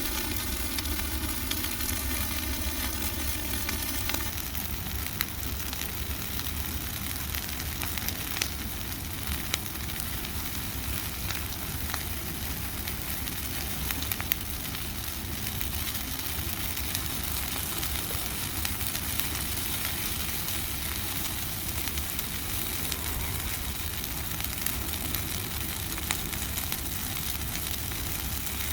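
Bonfire of dry Christmas trees burning with a steady hiss and low rumble, and small sharp crackles and pops scattered throughout.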